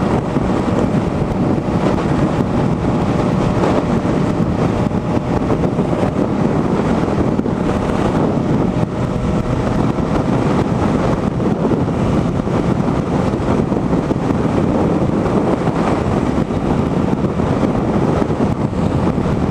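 Motorcycle cruising steadily at highway speed, around 80 to 85 mph, with heavy wind rushing over the rider's microphone and the engine drone underneath.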